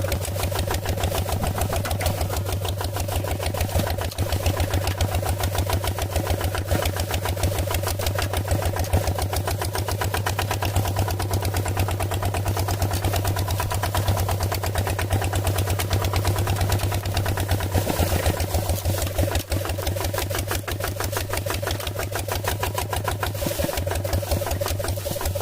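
Engine running steadily with a fast, even chugging pulse and a steady hum.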